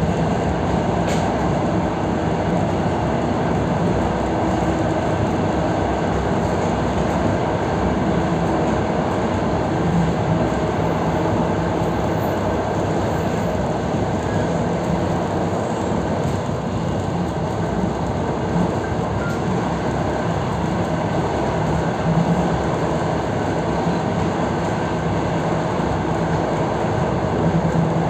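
EP3D electric multiple unit running along the line, heard from inside the passenger car: a steady rumble of wheels on rail with a constant low hum, and a single click about a second in.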